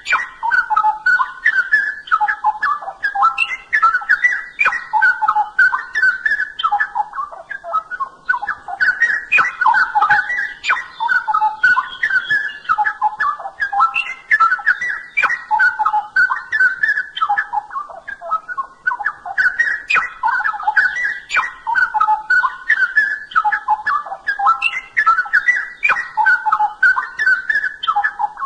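Straw-headed bulbul (cucak rowo) singing: long phrases of quick, jumping whistled notes, broken by short pauses about a third of the way in, two-thirds in and near the end.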